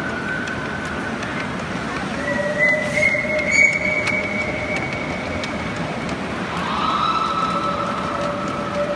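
Miniature live-steam train rolling on 7¼-inch gauge track: a steady rolling rumble with sustained high-pitched wheel squeal that shifts in pitch, and a few sharp clicks about three seconds in.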